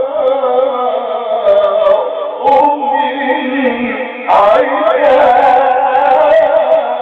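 A man's voice reciting the Quran in the melodic tajweed style, holding long ornamented notes whose pitch wavers. A louder, higher phrase begins a little past the middle.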